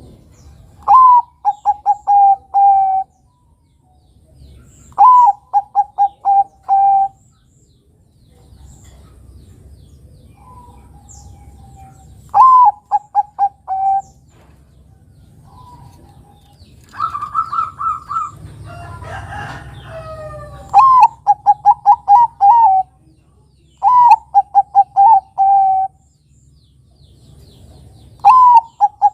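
Bangkok-type zebra dove (perkutut) cooing in its set song phrases, about six of them a few seconds apart. Each phrase is a first note followed by a quick run of short staccato coos. Around two-thirds of the way through there is a higher held note and a brief scratchy jumble.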